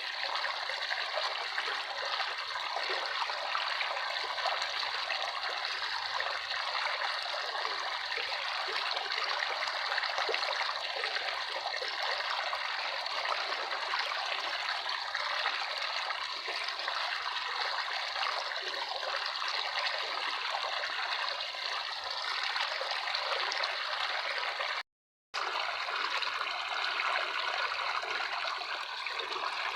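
Running water trickling and splashing steadily, with a brief drop to total silence about three-quarters of the way through.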